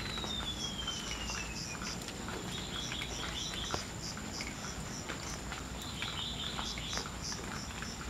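Golden-bellied gerygone singing: one long, thin whistle sliding down in pitch over nearly two seconds, followed later by short clusters of high notes. Behind it runs a steady high insect buzz and a regular row of faint high chirps.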